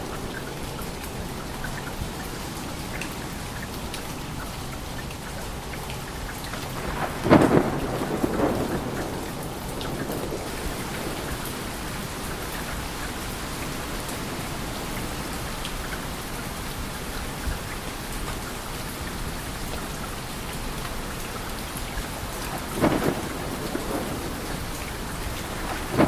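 Steady rain hiss with two short rolls of thunder, one about seven seconds in and another near the end.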